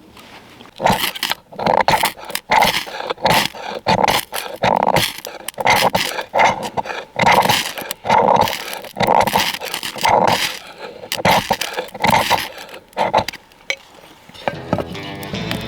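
An animal calling over and over, short loud calls about two a second, stopping a couple of seconds before the end.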